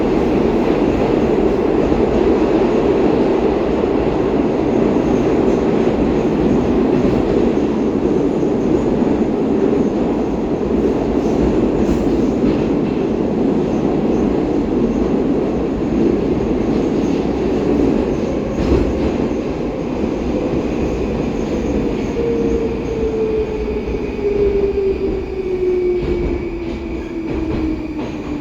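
Steady running rumble of a Baltiets metro train, heard from inside the carriage as it travels through the tunnel. In the last several seconds a whine falls steadily in pitch while the overall noise eases as the train slows for the next station.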